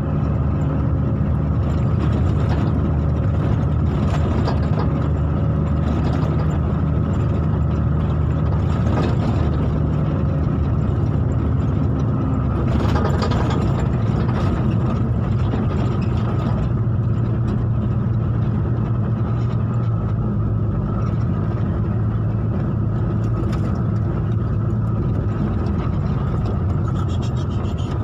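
A motor vehicle's engine running steadily at a constant low pitch, its note shifting slightly a little past halfway.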